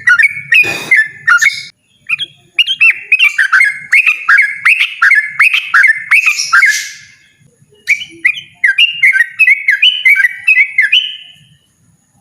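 Yellow-vented bulbul singing loudly in fast runs of repeated whistled notes, about three a second, broken by short pauses into three long bursts. There is a brief rasping sound about a second in.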